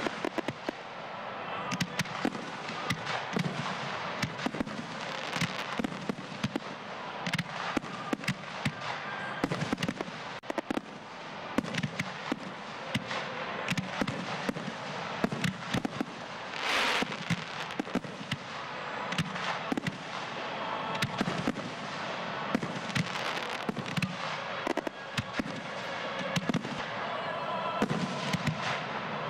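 A frontal fireworks display in full fire: a dense, continuous run of bangs and crackling reports from many shells and cakes going off along the line. About halfway through, one longer rushing burst stands out.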